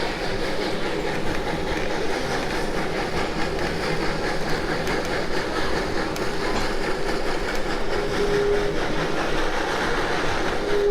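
Passenger car of the 1880 Train running along the track, heard from on board: a steady rumble with a light rhythmic clickety-clack of the wheels. A short steady tone sounds about eight seconds in, and another starts right at the end.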